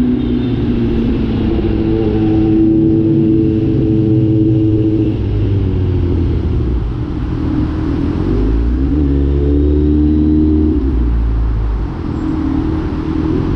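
Kawasaki Z900's inline-four engine with the catalytic converter removed, running under way, its pitch rising and falling several times as the throttle opens and closes.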